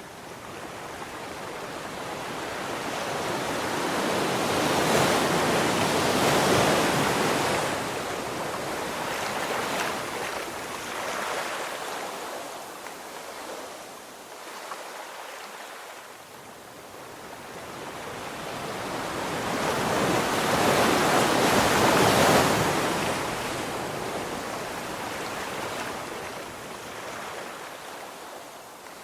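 Ocean waves crashing on a beach: two big surges about fifteen seconds apart, each swelling up and then fading away.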